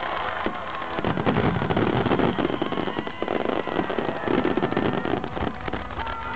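Fireworks bursting in quick succession, a dense, continuous crackle of pops.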